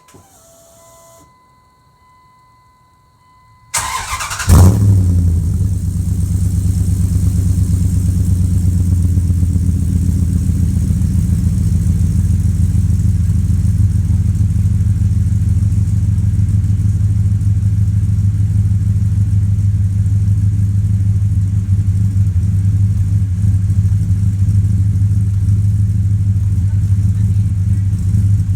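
2003 Dodge Durango R/T's 5.9-litre V8, on aftermarket headers with the stock exhaust, cranked and started almost four seconds in, flaring as it catches and then settling into a steady, deep idle. Before the start there is a faint steady electronic tone.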